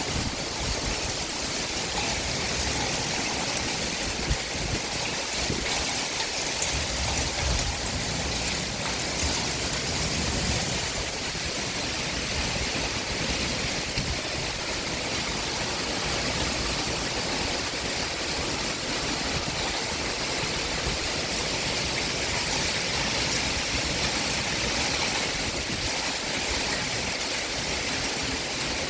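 Heavy summer rain pouring down, a steady dense hiss of rainfall and running water.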